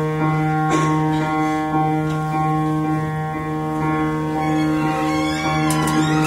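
Live theatre pit orchestra playing a long held chord, with a few short accents in the first second and sliding, wavering notes coming in near the end.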